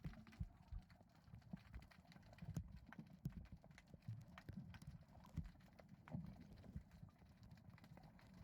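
Faint underwater ambience: irregular small clicks and soft low knocks scattered throughout, with no steady tone.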